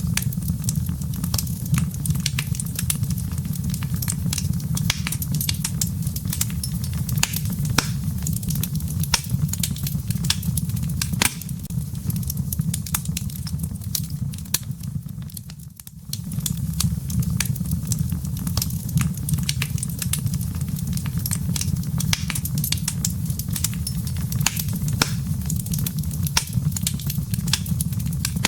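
Wood fire burning in a fireplace: a steady low rumble of flames under frequent sharp crackles and pops of burning firewood. The sound dips briefly about sixteen seconds in, then resumes.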